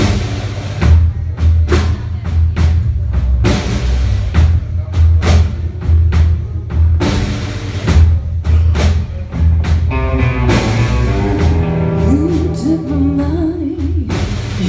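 A live blues band playing the instrumental intro of a song, with a steady drum-kit beat and a bass line. About ten seconds in, a pitched melody line with bending notes comes in over them.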